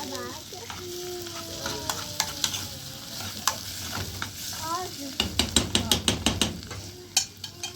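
Cooking at a pot: a utensil stirring and scraping with sharp clicks and clinks, and a fast run of clinks about five seconds in.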